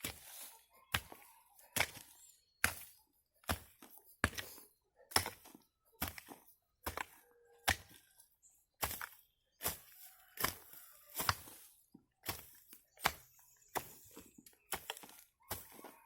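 Hoe blade chopping into soil and weeds in a steady rhythm, a sharp strike a little more often than once a second.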